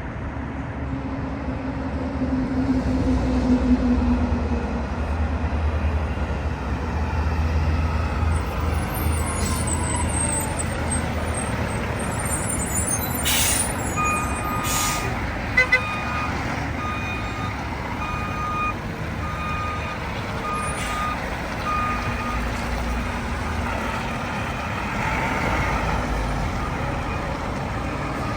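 Mack MRU front-loader garbage truck's diesel engine running with a low rumble; partway through, its reversing alarm beeps steadily, about once a second, for several seconds as the truck backs up.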